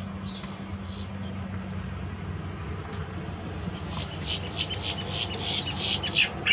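A bird chattering: a single high chirp near the start, then a rapid run of loud high chirps over the last two and a half seconds, over a steady low hum.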